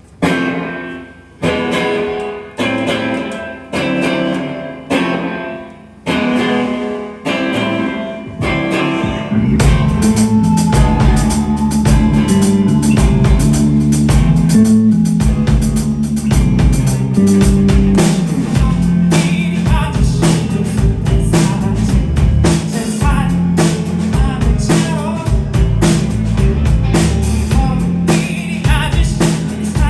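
Live band music: an intro of single chords struck about once every second and a quarter, each left to ring and fade, then drums and bass come in at about nine seconds and the full band plays on steadily.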